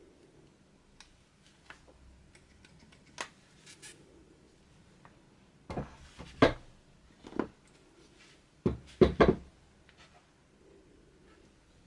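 Scattered knocks and clatters, as of hard objects being handled and set down, with a cluster of sharp, loud knocks a little past the middle.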